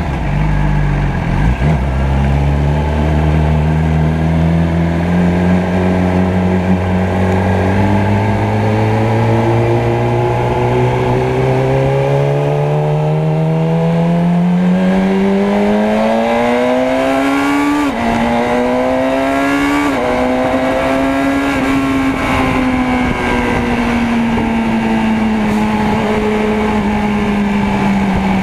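Motorcycle engine pulling up through the revs in a long, slow climb in pitch. There is a gear change about two-thirds of the way in, a short climb again, and then the engine eases off and its pitch slowly falls.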